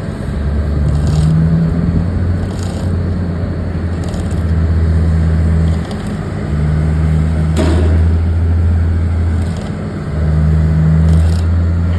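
Heavy machinery engine running with a deep steady drone that dips briefly twice. Occasional light metallic knocks sound over it, the sharpest just past halfway.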